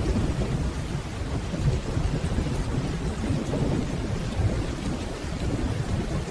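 Steady rainfall with a continuous low rumble of distant thunder underneath.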